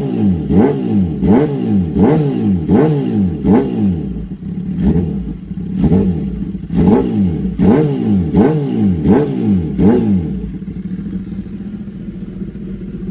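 2018 Kawasaki ZX10R's inline-four engine through an SC Project S1 full titanium exhaust, revved in quick throttle blips, about three every two seconds, each rising sharply and falling back. About ten seconds in the blipping stops and the engine settles to a steady idle.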